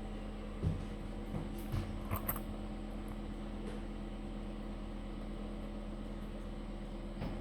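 A steady mechanical or electrical hum, with a few short knocks in the first couple of seconds.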